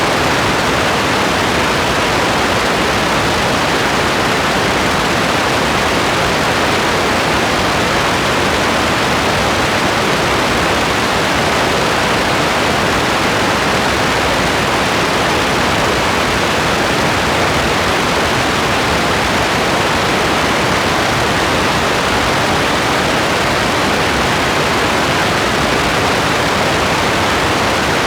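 Steady rain as an even hiss, with no single drops, thunder or changes standing out.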